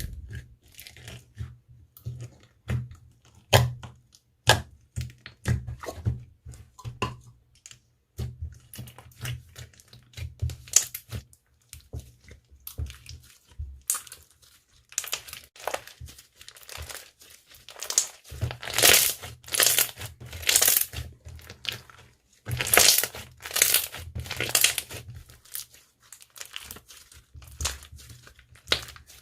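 Hands kneading, pressing and stretching slime, making irregular crackling, popping and crinkling sounds that grow denser and louder in bursts over the last half.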